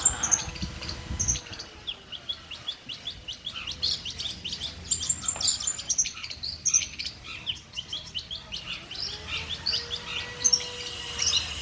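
Long-tailed shrike (pentet) singing: a fast, busy stream of short, sharp chirps and whistled notes.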